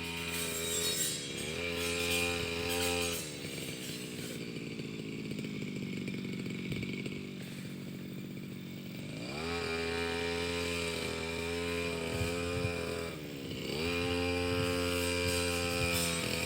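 Petrol brush cutter engine running at high revs, eased briefly about a second in and then throttled down to a lower idle for several seconds. It revs back up about 9 s in, with another short dip near 13 s.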